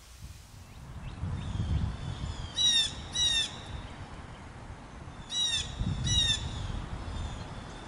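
A bird calling outdoors: two pairs of short, harsh calls that each drop in pitch, the first pair about two and a half seconds in, the second about three seconds later. A low rumble of wind-like noise runs underneath.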